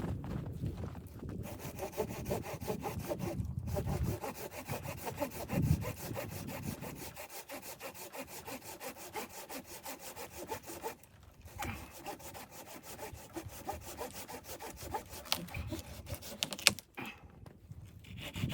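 A saw cutting through wood with steady rasping strokes, pausing briefly twice.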